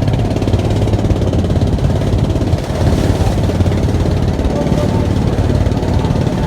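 A river trawler's engine running with a loud, fast, steady chugging.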